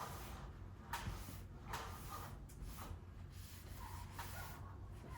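Faint rubbing and handling noises from wiping grease off with shop wipes, with a few light knocks, over a low steady hum.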